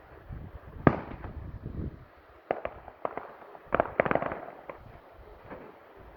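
Fireworks going off: a loud bang about a second in, then a quick run of sharper bangs and crackling pops around the middle that trails off, with low wind rumble on the microphone underneath.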